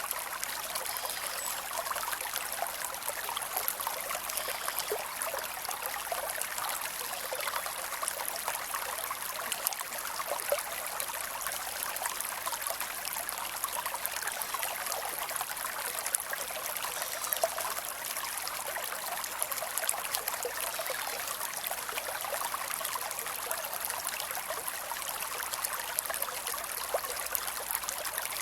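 Creek water running and trickling steadily, a continuous even rush.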